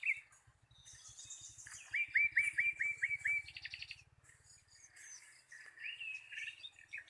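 Wild birds calling, several at once. About two seconds in one bird gives a quick series of about eight repeated notes, followed by a short fast trill, and more chirps come in near the end.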